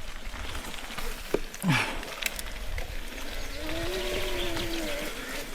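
Mountain bike riding over a wet, rocky trail: rattles and knocks from the bike, with a low moaning tone that rises and falls for about a second and a half near the middle.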